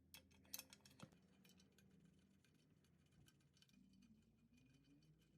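Near silence with a few faint clicks, most of them in the first second.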